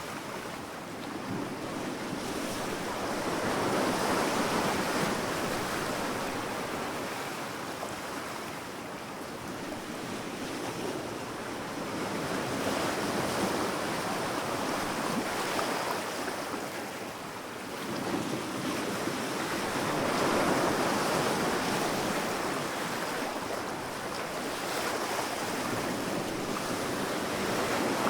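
Sea waves breaking and washing up on a sandy beach, the surf swelling and fading in slow surges every several seconds, with some wind.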